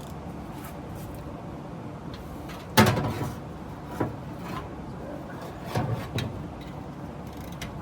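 A few sharp knocks and clanks of hand tools working on the truck's engine bay: a loud one about three seconds in, lighter ones after it, and another near the end, over a steady background.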